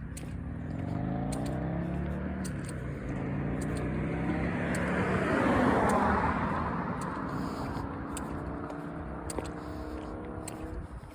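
A car passing by on the road: engine hum and tyre noise swell to their loudest about halfway through, then fade as it goes away.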